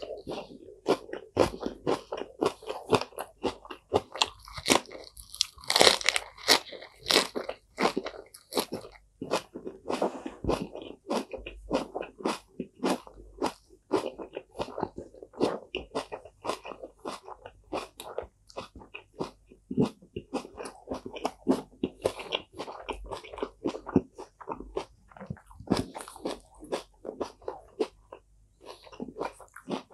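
Close-miked chewing of a crisp raw lettuce leaf wrapped around red onion slices: wet, crackling crunches several times a second, loudest a few seconds in.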